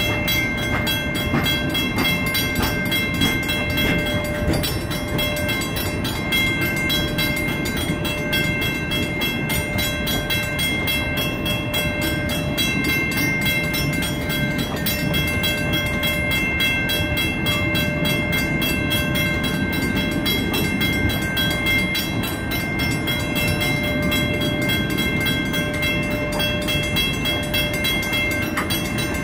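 Passenger cars of the Ringling Bros. and Barnum & Bailey circus train rolling steadily past, their wheels rumbling and clacking on the rails. Steady ringing tones from the grade-crossing signal's bell run over the train noise.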